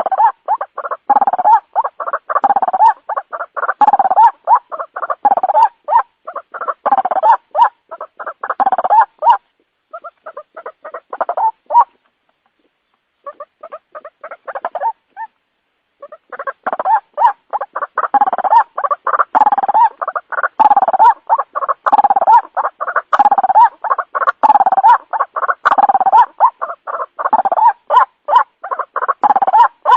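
White-breasted waterhen (ruak-ruak) calling in a long, rapid run of repeated harsh notes, a lure recording used to draw the birds in. The calling thins out about a third of the way in, stops dead twice for about a second, then picks up densely again.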